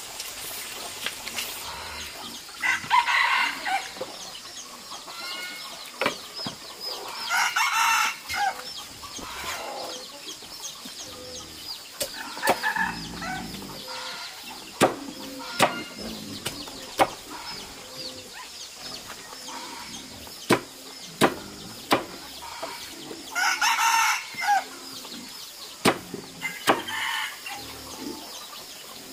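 Chickens clucking, with a rooster crowing three times and scattered sharp knocks in between.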